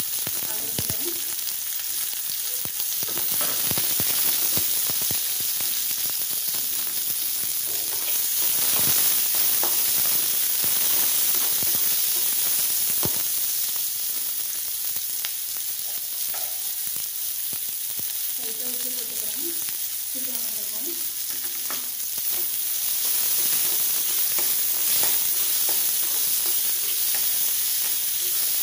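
Sliced onions and capsicum sizzling steadily in hot oil in a metal kadai, with the clicks and scrapes of a slotted metal spoon stirring them against the pan.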